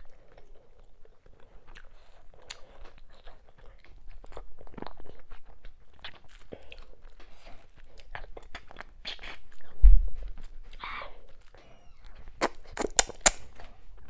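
Close-miked eating sounds: wet chewing, lip smacks and sharp mouth clicks as a piece of meat from ogbono soup is bitten and chewed. A low thump about ten seconds in is the loudest sound, and a quick run of sharp clicks comes near the end.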